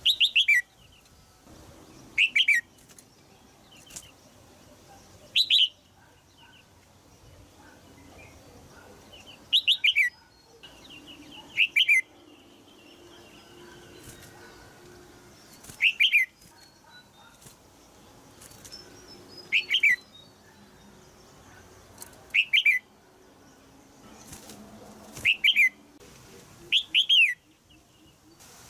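Female red-whiskered bulbul in a cage giving short, sharp, falling 'jiek' calls, often as a quick double note, repeated every two to four seconds, with fainter twittering and a few soft clicks between. These are calls used to stir a male bulbul into singing.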